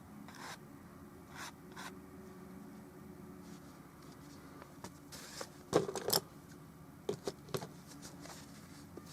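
Brush strokes on an oil painting: short scrubbing swishes and scrapes, with a quick cluster of clicks and knocks about six seconds in, over a faint steady low hum.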